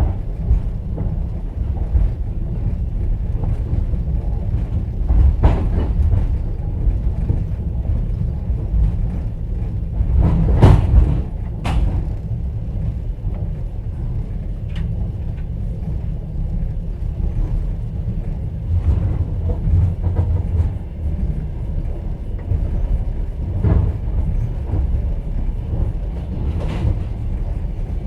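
Steady low rumble of a moving passenger train heard inside an open-plan sleeper carriage. Now and then there is a sharp knock of the wheels over the rails, the loudest two close together about ten and eleven seconds in.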